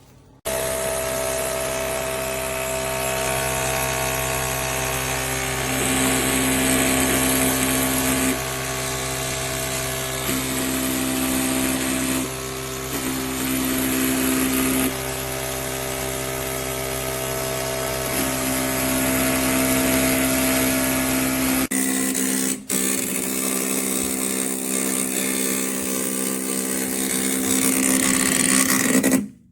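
Breville Oracle Touch automatic espresso machine running: a loud, steady, drill-like motor hum that shifts about two-thirds of the way through, when its low hum drops away.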